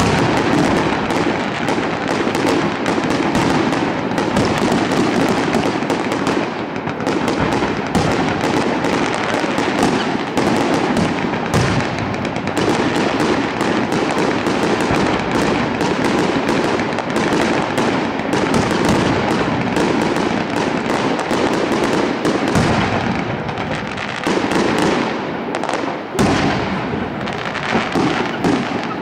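Aerial firework shells bursting in quick succession, a dense, continuous run of bangs and crackles with no real pause.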